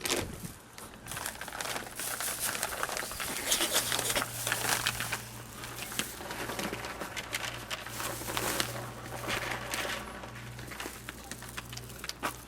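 A group of cats crunching dry cat food: a dense, continuous crackle of many small clicks that swells and eases.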